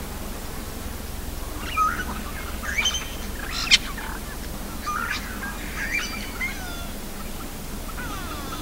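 Wild birds calling in the bush: a scatter of short chirps and whistled notes, some sweeping in pitch, with one sharp click-like note about halfway through. A steady low rumble runs underneath.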